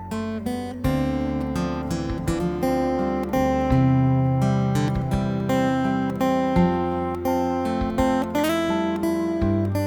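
Instrumental ensemble of ukulele, acoustic guitar and electric guitar playing a melody over plucked and strummed chords and a held bass line, with a couple of notes sliding up in pitch near the end.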